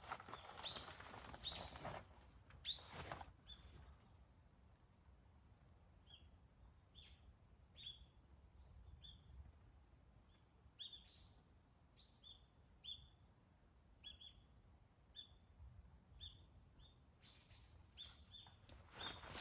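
Faint, short bird chirps repeating about once a second, with some rustling in the first few seconds and again near the end.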